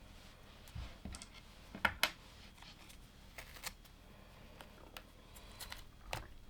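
Plastic LEGO bricks being handled and pressed together: scattered small clicks and taps, the loudest two close together about two seconds in.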